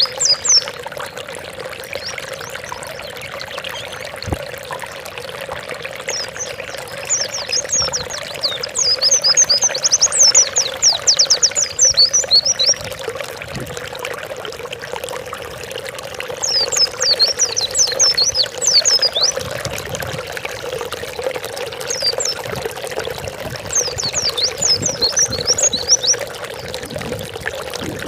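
White-eye (pleci) singing in several bursts of fast, high chirping phrases a few seconds long, over a steady sound of trickling water.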